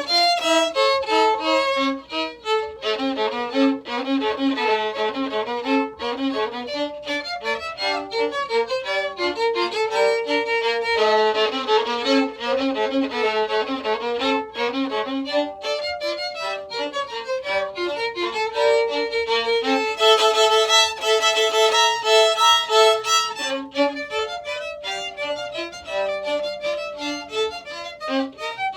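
Violin playing a melody, note after note without a break.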